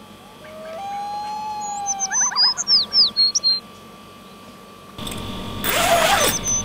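Bird song: a long whistled note, then a quick run of rising and falling whistles and high chirps that sweep downward. From about five seconds in, a rasping noise takes over.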